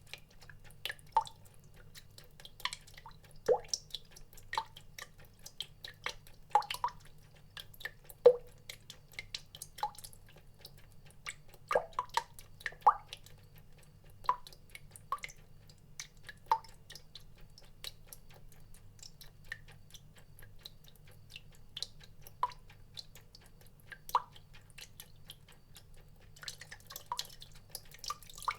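Water drops falling one at a time at an uneven pace, about one or two a second, each a short pitched plop, some louder than others. A faint steady low hum runs underneath.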